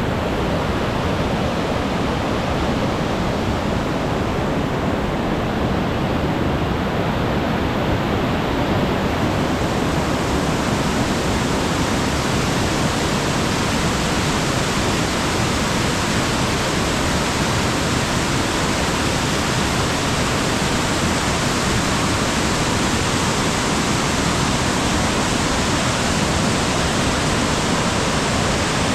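Mountain stream rushing over rocks, a steady dense water noise that turns hissier about nine seconds in.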